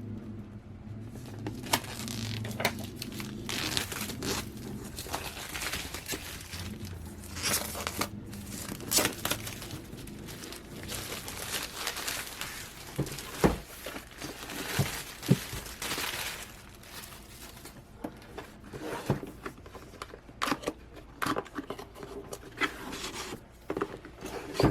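Cardboard box being opened and plastic wrapping crinkled and torn off the parts of a monitor arm mount, with scattered knocks as pieces are handled.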